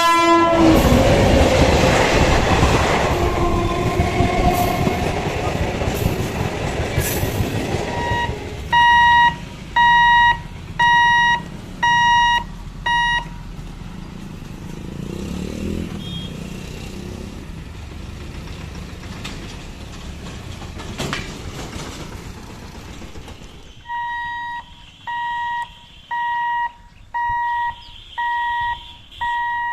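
Express train passing a level crossing: a loud rumble of wheels and carriages that fades over the first several seconds. Then the crossing's electric warning buzzer beeps steadily about once a second, five times. After a quieter pause it starts beeping again near the end.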